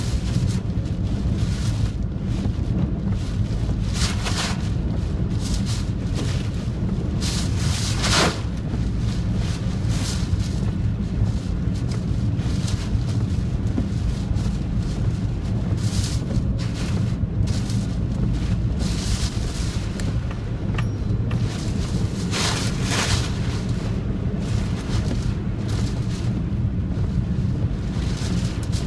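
Strong typhoon wind buffeting a phone's microphone as a steady low rumble, with brief louder rushes of noise every few seconds.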